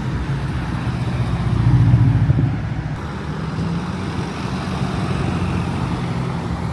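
Car engine running at low speed, with a low drone that gets louder about two seconds in and then eases off, over road traffic noise.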